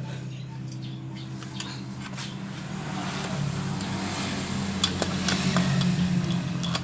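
Light metallic clicks and clinks of engine parts being handled and fitted into a motorcycle crankcase, getting busier and louder in the second half, with one sharp click near the end. A steady low machine hum runs underneath.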